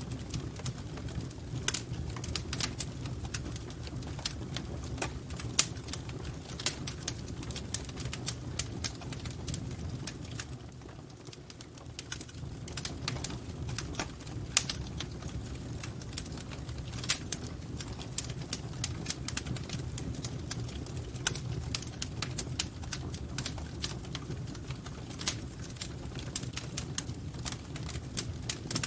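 Wood fire crackling in a fireplace: irregular pops and snaps over a low steady rumble, easing briefly about eleven seconds in.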